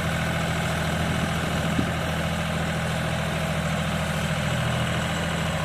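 Farm tractor's diesel engine running steadily at low, even revs, with a faint tick about two seconds in.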